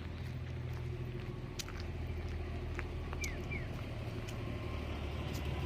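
Outdoor ambience: a steady low rumble with scattered light clicks, and two short falling chirps in quick succession about three seconds in.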